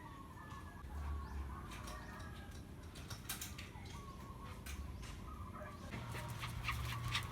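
Birds calling, with scattered light clicks and knocks that come more often near the end.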